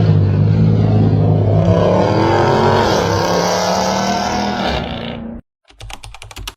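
Car engine and exhaust running loud and steady, its pitch sweeping up and down briefly in the middle, then cut off abruptly; a short run of clicks follows near the end.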